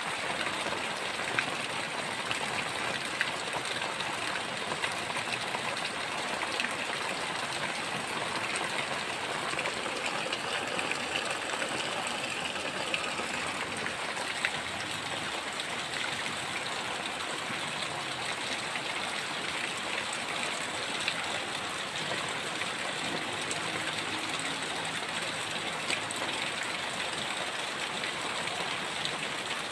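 Heavy rain falling steadily, a dense hiss with scattered sharp drip ticks on hard surfaces.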